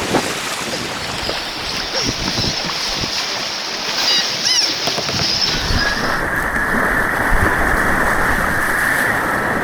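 Rushing whitewater and splashing around a kayak. It is a loud, steady wash that turns duller and more muffled about six seconds in.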